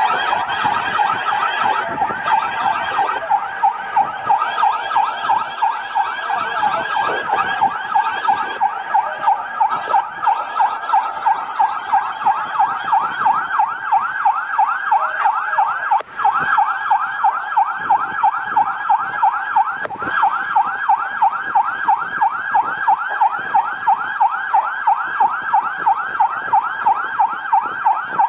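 Emergency vehicle siren in a fast yelp, its pitch sweeping up and down about two to three times a second without pause. It drops out briefly about halfway through.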